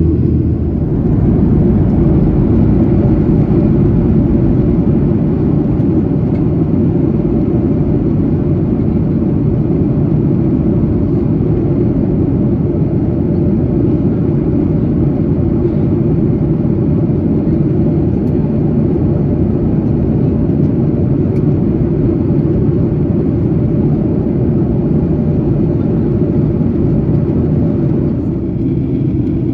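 Steady in-flight cabin drone of a Boeing 737-800, the low rumble of its CFM56-7B jet engines and airflow heard inside the cabin, with a faint steady hum above it.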